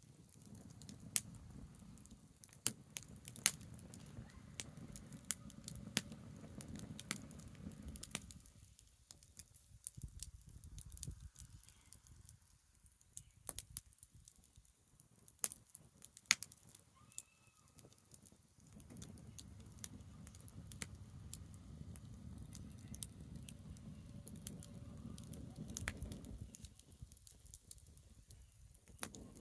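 Branch bonfire crackling, with sharp pops and snaps of burning wood scattered through, over a low rumble that comes and goes.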